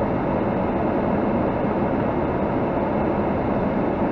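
Steady rumbling, rushing outdoor background noise at an even level, with no separate knocks or pitched sounds.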